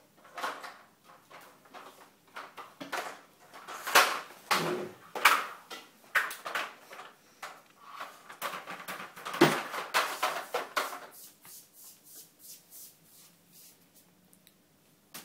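Toy truck being handled by a baby, knocking and clattering in irregular bangs and clicks, with the loudest knocks about four and nine seconds in; it goes much quieter for the last few seconds.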